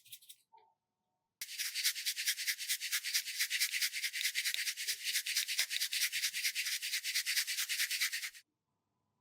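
Quick, even rubbing or scrubbing strokes, about seven a second, starting about a second and a half in and stopping abruptly near the end.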